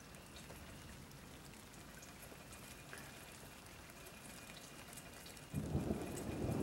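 Rain falling steadily, then about five and a half seconds in thunder breaks in with a sudden low rumble that keeps going.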